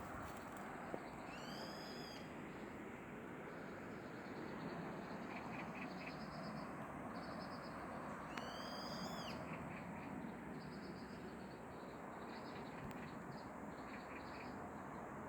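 A forest bird gives two arched, pitched calls about seven seconds apart, while other birds chirp in short quick series, over a steady background hiss.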